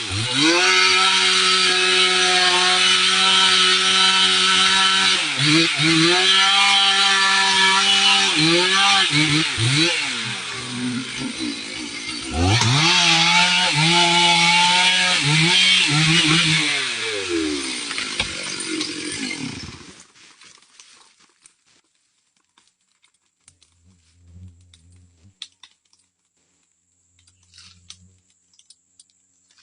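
Two-stroke chainsaw running at high revs while cutting wood, its engine note dropping and climbing back twice as the chain loads up in the cut. It dies away about twenty seconds in, leaving only faint scattered sounds.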